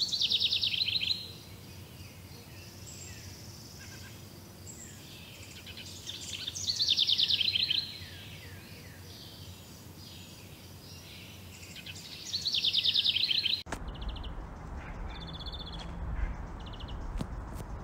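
A bird singing a loud phrase of rapid trilled notes three times, about six seconds apart, with softer falling chirps between. Near the end the audio cuts abruptly to a different track of short chirps.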